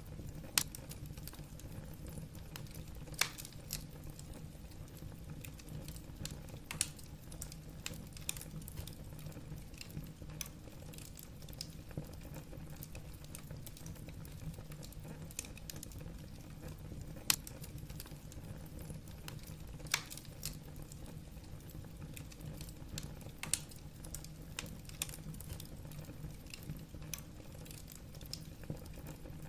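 Wood fire burning in a fireplace: a steady low rumble of flame with irregular crackles and sharp pops from the burning logs.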